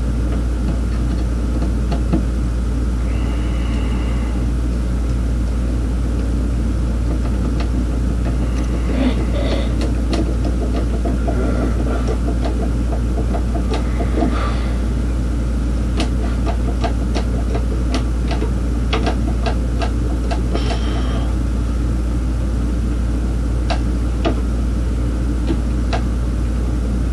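Steady low rumble, with scattered clicks and taps of small hand tools and hardware being handled, thickest in the second half.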